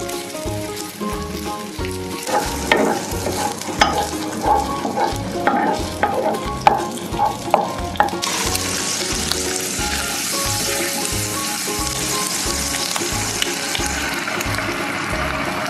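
Rice stir-frying in a hot wok: a wooden spatula scrapes and knocks against the pan for several seconds, then a steady sizzle of frying sets in sharply about halfway through and carries on, with beaten egg going into the hot oil near the end.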